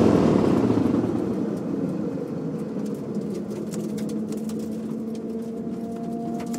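A car's engine sound fading away over the first two seconds, leaving a quieter steady hum.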